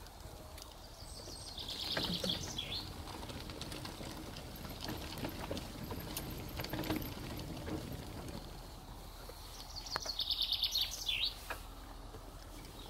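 A songbird sings twice, about eight seconds apart: each phrase is a short run of fast repeated high notes that ends in a downward slur. Faint clicks sound in between.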